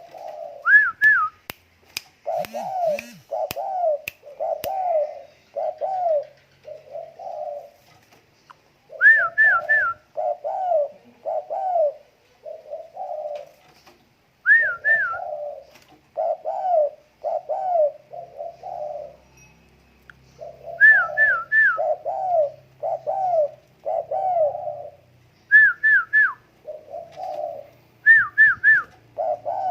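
Spotted dove cooing repeatedly, phrases of about four or five low coos, roughly one a second, with short pauses between phrases. Every few seconds a quick group of three higher, sharper notes cuts in, and a few sharp clicks sound near the start.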